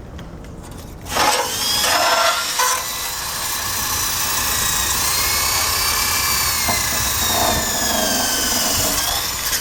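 Power drill with a wire brush attachment running against bare metal, starting about a second in and scrubbing steadily, its motor pitch wavering slightly under load.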